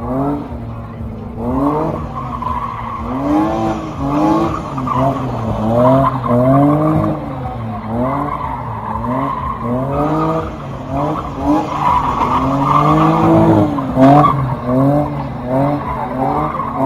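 A car engine revved up and down over and over, roughly once a second, with tyre squeal under it.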